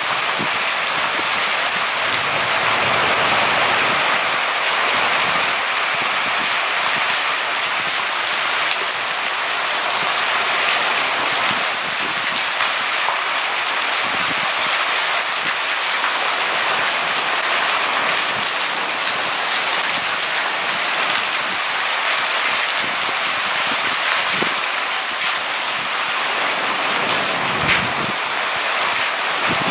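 Heavy thunderstorm rain falling steadily, a dense even hiss of downpour.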